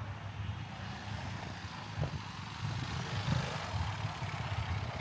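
Road traffic: a steady low rumble of cars and other vehicles passing, with a few faint knocks.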